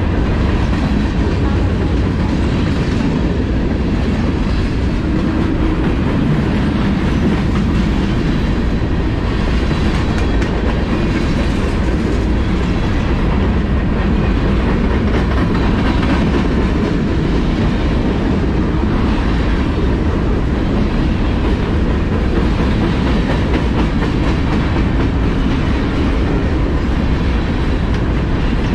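CSX freight train rolling steadily past, its cars running on the rails with a loud, continuous noise.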